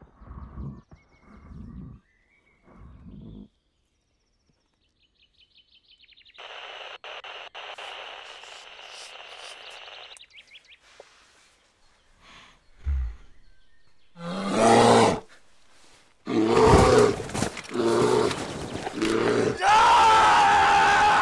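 Loud bear roars and growls, rough and wavering in pitch, breaking out about fourteen seconds in and going on in long bursts; before them come short breathy puffs, a long steady rasp and a single low thump.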